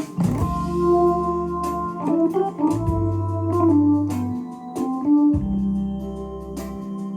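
Korg Pa1000 arranger keyboard playing a factory style: held organ chords over a changing bass line, with drum hits throughout.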